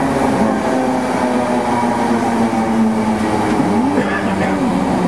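Class 313 electric multiple unit heard from inside the carriage, running into a station: a loud steady rumble with a low hum whose pitch dips shortly after the start and bends up and back down about four seconds in.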